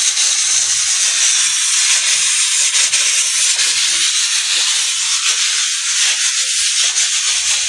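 Steam hissing steadily from a cooking pot on the fire.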